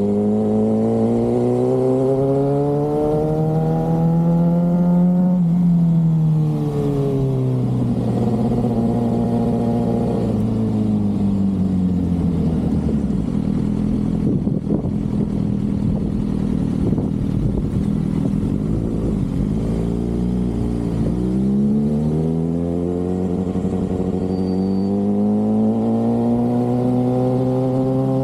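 Sport motorcycle engine under way, pulling up in pitch over the first five seconds, falling off sharply around six seconds as the throttle closes, running low and steady through the middle, then climbing again over the last seven seconds.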